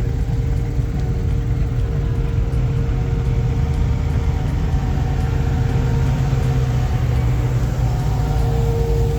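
Car engine running steadily, a deep, even engine sound with no clear rise or fall.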